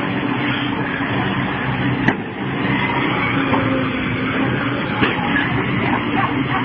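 Machine engine running steadily, with a sharp knock about two seconds in and a fainter one about five seconds in.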